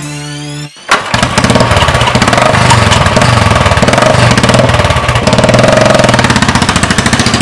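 Royal Enfield motorcycle's single-cylinder engine starting about a second in, then running steadily with a fast, even beat.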